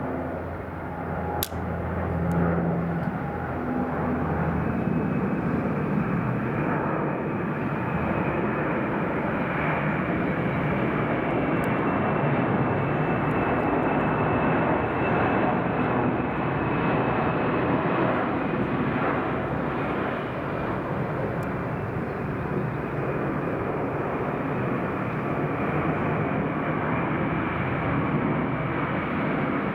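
A low-flying airplane on landing approach passing overhead: a loud, steady engine noise that holds for the whole stretch, with a faint high whine on top. There is a single sharp click about a second and a half in.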